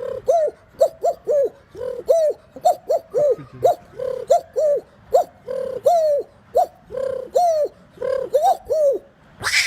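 A person imitating a pigeon's cooing with the voice: a steady run of short coos, each a low hum ending in a note that leaps up and drops back, over a dozen in a row.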